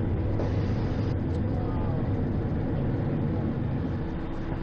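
Steady cockpit noise of a Cessna Citation XL in its initial climb: airflow rush and the twin turbofans at takeoff power, with a faint steady hum.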